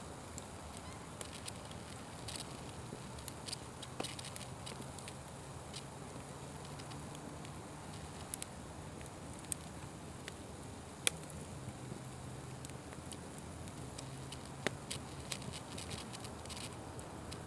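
Fire burning with a steady hiss and scattered sharp crackles and pops, the loudest about eleven seconds in.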